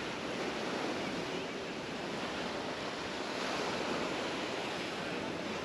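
Mediterranean surf washing onto a sandy beach: a steady rush of waves.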